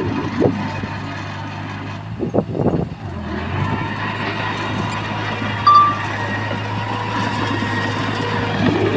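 Heavy construction machinery's diesel engine running steadily, with a louder, uneven stretch about two and a half seconds in. A short, high tone sounds briefly near six seconds.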